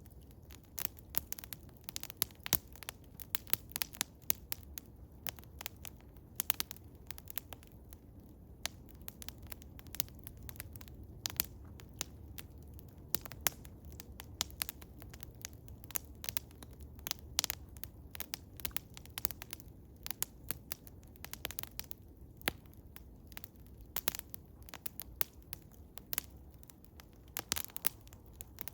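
Eastern hemlock wood fire crackling: irregular sharp pops and snaps, several a second, over a low steady rumble.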